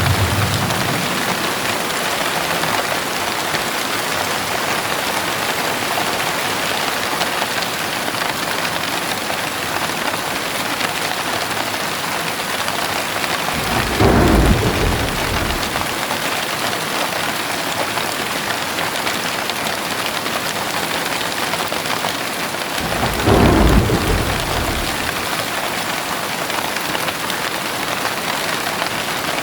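Heavy rain pouring down steadily, with low rolls of thunder: one fading out at the very start, one about halfway through and another some nine seconds later.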